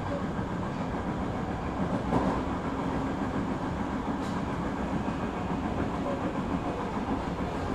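Kita-Osaka Kyuko 9000 series electric train running at speed, a steady rumble of wheels on rail with a sharp clack from the track about 2 and 4 seconds in.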